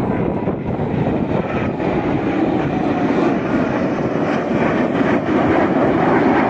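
Jet aircraft passing low overhead at an air show: loud, steady jet engine noise that grows slightly louder toward the end.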